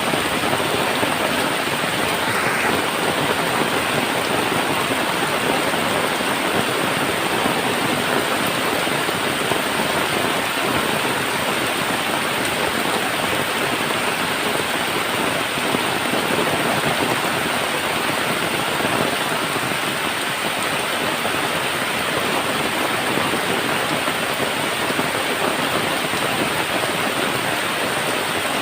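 Heavy rain drumming steadily on a tin roof, a dense, even hiss with no let-up.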